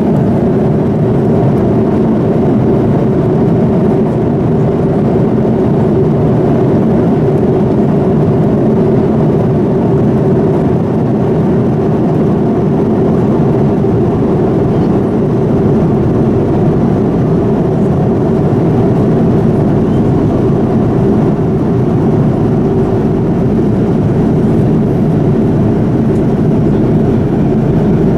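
Steady cabin noise inside a Boeing 787-9 airliner: an even rush of engine and airflow noise that holds level without rising or falling.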